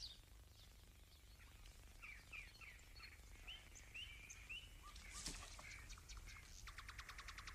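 Faint birdsong: a string of short chirps, then a fast trill near the end, over a steady low hum.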